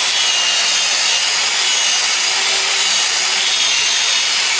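Electric saw running steadily as it cuts through old wood for firewood, a high motor whine over the rasp of the cut.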